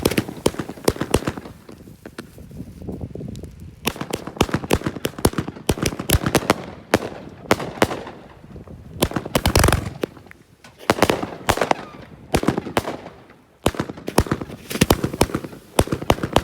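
Consumer fireworks going off: clusters of rapid sharp pops and crackles in quick strings, with a heavier boom about nine and a half seconds in.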